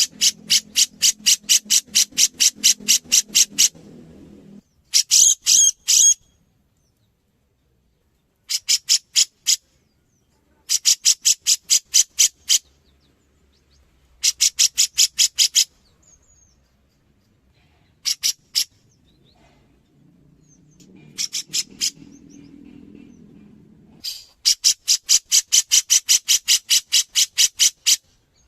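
Cucak jenggot (grey-cheeked bulbul) singing: rapid runs of sharp, high repeated notes, about five a second, in phrases of one to four seconds with pauses between.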